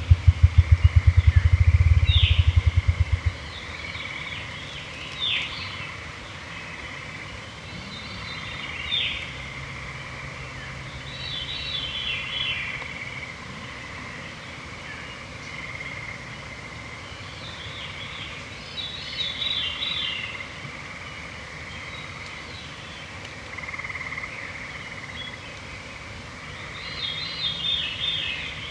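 Evening chorus of songbirds singing short repeated phrases every few seconds over a steady trill from gray treefrogs or American toads. A rapid run of loud low thumps stops abruptly about three seconds in.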